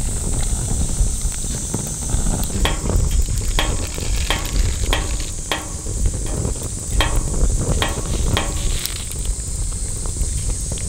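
Wood campfire crackling, with irregular sharp pops over a steady low rush, and insects chirping steadily in the background.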